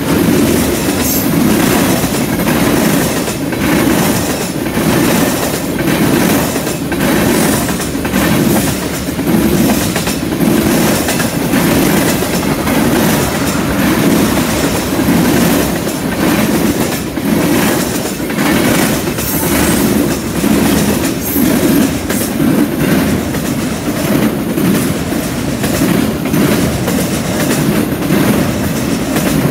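Freight cars of a passing train (tank cars, covered hoppers, then autoracks) rolling by close, a loud steady rumble with repeated wheel clicks as the trucks pass.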